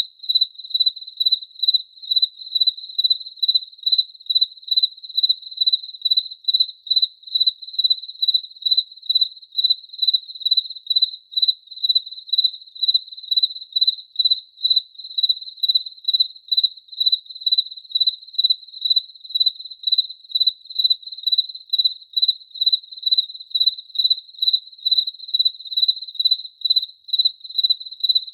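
A cricket chirping in a steady, even rhythm: high-pitched chirps at about two to three a second.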